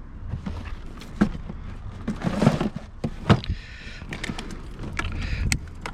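Scattered knocks and clunks with some rustling as gear is handled and loaded, over a low steady rumble.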